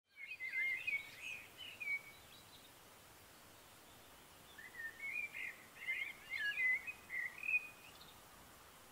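A songbird singing two bouts of quick warbling phrases, one at the start and one starting about four and a half seconds in, over a faint steady outdoor hiss.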